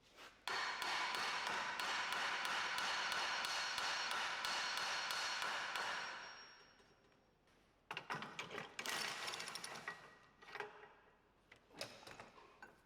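A ball joint press being worked on a control arm. A loud, steady tool run lasts about five seconds and fades out, followed by a spell of metallic clicking and clatter and a few lighter clicks near the end.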